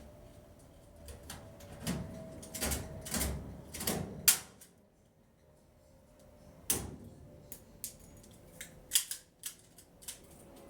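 Irregular clicks and knocks of hard objects being handled, the loudest a sharp click about four seconds in, followed by a short lull before more clicks.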